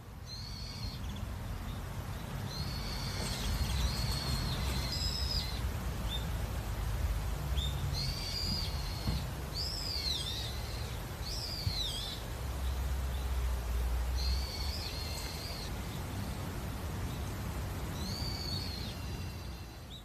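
Birds calling in short phrases of high whistled notes, some arching up and down in pitch, repeated every few seconds over a steady low rumble.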